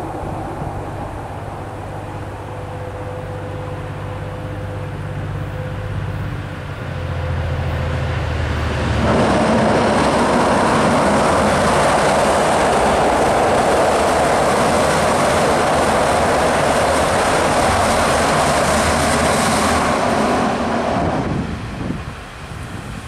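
V/Line N class diesel locomotive approaching with a steady low engine drone, then passing close by over a steel girder rail bridge from about nine seconds in: a loud, steady rush of engine, wheel and bridge noise that lasts about twelve seconds and fades near the end.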